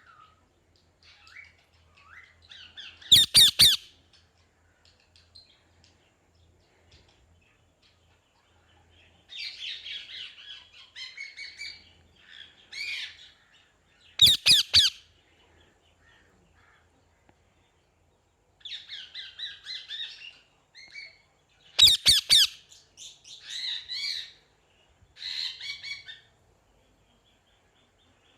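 A parrot calling: bursts of high chattering chirps and warbles, broken three times by a short, loud, harsh squawk.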